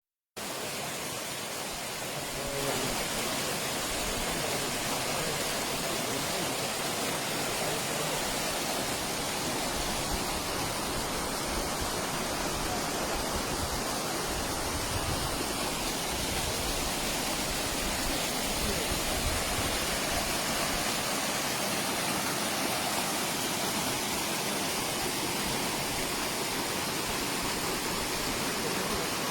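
Steady rushing of running water, like a stream or small waterfall, with an unbroken hiss and no distinct events.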